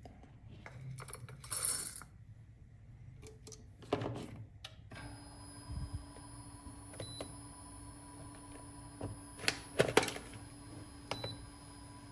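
Clicks, knocks and brief rattles of a coffee grinder being handled. About five seconds in, a steady quiet whine sets in, the grinder's motor running, with a couple of sharp knocks a few seconds later.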